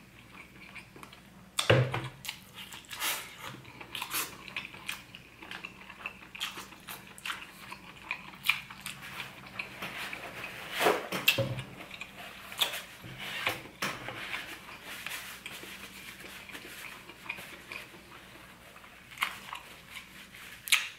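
A person chewing king crab in cheese sauce close to the microphone, with irregular wet smacks and clicks. Paper towel rustles as it is handled and wiped over the hands and mouth.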